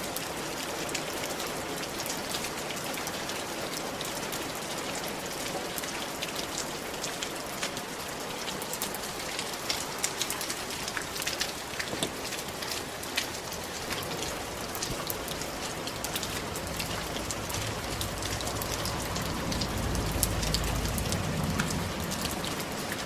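Steady rain falling on a tiled roof, a dense hiss with many sharp drop ticks. A low rumble swells in about two-thirds of the way through, loudest near the end.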